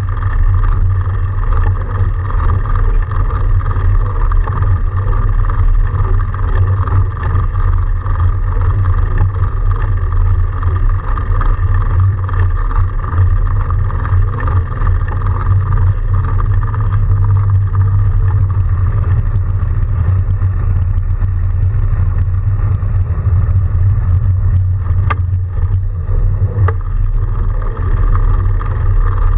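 Steady low rumble of a fat bike being ridden through snow, with wind on the microphone and tyre noise, and two short clicks near the end.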